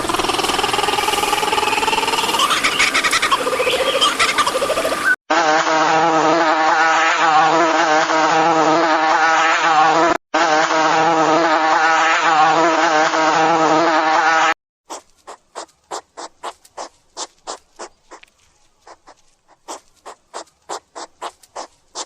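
Wild animal calls with gliding whistles, then a steady insect buzz with a slightly wavering pitch for about nine seconds, broken briefly once, then a quick series of short chirps repeating a few times a second.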